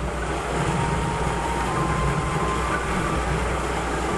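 JR West 683 series electric multiple-unit express train running past at speed: a steady rush of wheel and running noise with a low rumble and a faint thin whine. It swells up quickly in the first half second, then holds.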